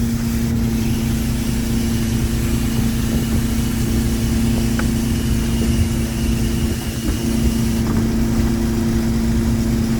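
Fishing boat's engine and hydraulic line-hauler machinery running steadily while octopus pots are hauled: a constant mechanical hum with a steady droning tone.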